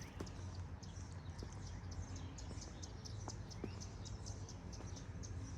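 Small birds chirping: a steady run of many short, high chirps over a low, steady outdoor background hum.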